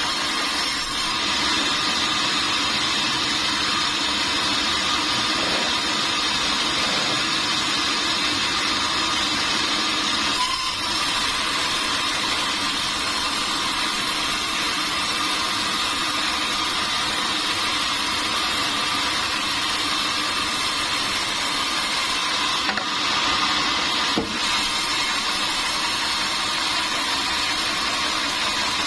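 Sawmill machinery running steadily: a constant, even mechanical noise, with no separate strikes or clear changes.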